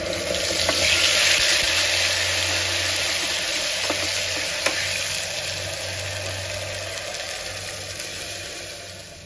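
Wet ground onion-tomato masala paste sizzling hard as it hits hot mustard oil in a pressure cooker and is stirred with a spatula. The sizzle is loudest about a second in and slowly dies down as the paste starts to fry, with a few light taps of the spatula against the pot.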